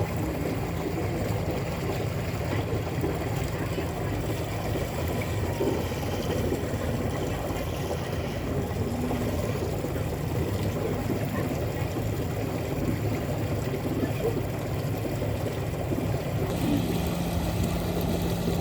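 Steady rush of water and a low, even hum aboard an electric passenger boat under way on the lake.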